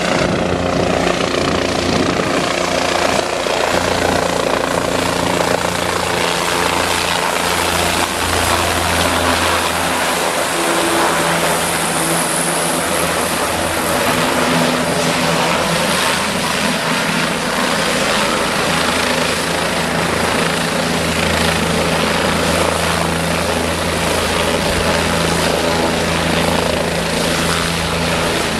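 Bell 407 helicopter running loudly and steadily: its turboshaft engine and four-blade main rotor, with a low rotor drone under a dense rushing noise.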